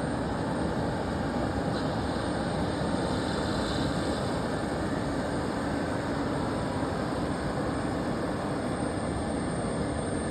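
Airbus A321neo airliner on pushback, its jet noise a constant roar with a faint steady high whine.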